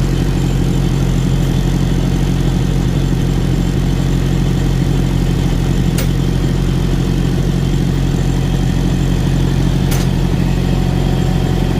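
A semi-truck's diesel engine running steadily with a low drone. Two short sharp clicks come about six and ten seconds in.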